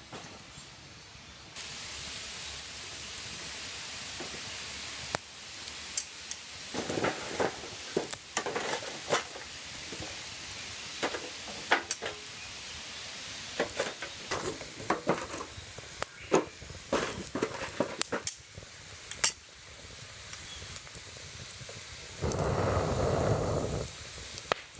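Campfire crackling, with irregular snaps over a steady hiss. A louder rush of noise lasts about two seconds near the end.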